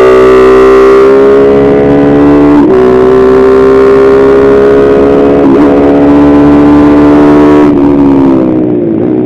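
Kayo MR150 pit bike's single-cylinder four-stroke engine at full throttle, heard onboard: the revs climb steadily, with two quick upshifts about two and a half and five and a half seconds in, where the pitch drops and then climbs again. Near the end the throttle closes and the engine note falls away as the bike slows.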